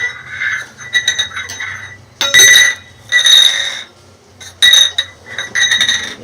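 Repeated clinking with a ringing tone, a hard object struck or shaken in about six bursts; the loudest come about two and three seconds in and again near five seconds.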